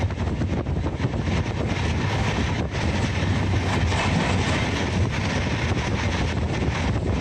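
Steady running noise of an express train heard from a coach window: a rumble of wheels on the rails mixed with rushing air. It swells briefly about four seconds in as the coach passes under a bridge.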